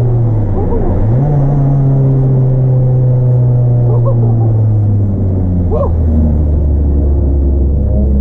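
Proton Wira's 1.6-litre 4G92P four-cylinder engine running while driving, a steady low drone. Its pitch dips and climbs back about a second in, then falls to a lower note about five seconds in and holds there.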